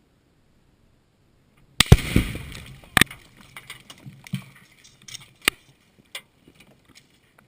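Tannerite charge detonating: a sudden, very loud blast about two seconds in with a rumbling tail, then another sharp crack a second later and scattered smaller cracks and rattles over the next few seconds.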